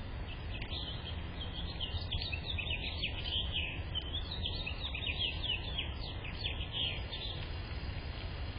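A small songbird singing a rapid, chattering run of high chirps lasting about seven seconds, over a steady low background rumble.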